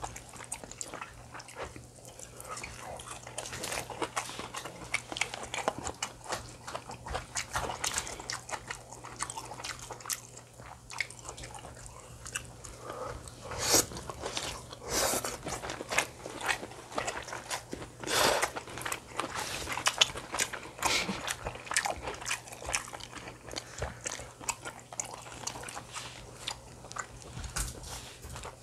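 A person chewing and eating Korean home-cooked food close to the microphone: chewing and crunching with many small clicks and taps, a few louder ones around the middle, over a low steady hum.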